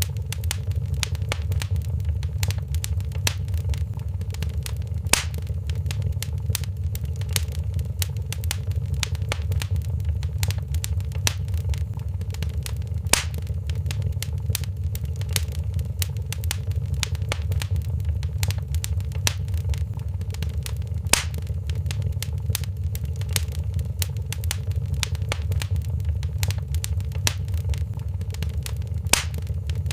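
Wood fire crackling in a fireplace: a steady low rumble with constant small snaps and four louder pops, about eight seconds apart.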